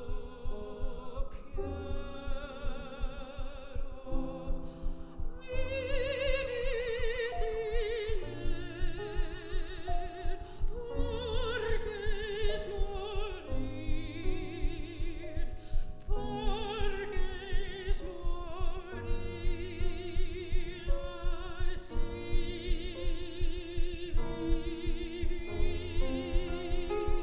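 Classical soprano singing with wide vibrato over piano accompaniment, the voice holding long, high notes through most of the passage.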